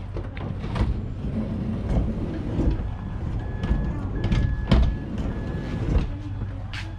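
Honda Odyssey sliding side door being worked, with several knocks and clunks and a beeping tone sounding four times in the middle.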